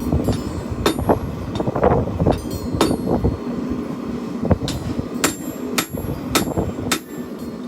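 Hand hammer striking hot steel on an anvil while forging a knife blade: about nine ringing blows at uneven spacing, over a steady low rumbling noise.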